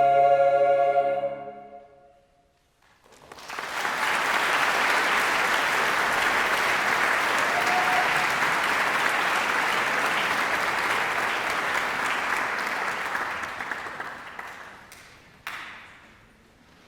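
A choir's final held chord dies away, and after a moment of silence the audience breaks into applause that runs for about ten seconds and then fades out. A single sharp knock sounds near the end.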